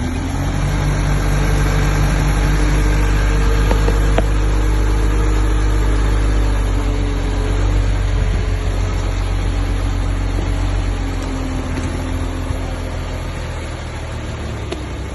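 Bulldozer's diesel engine running steadily, a heavy low rumble whose pitch shifts slightly as the load changes.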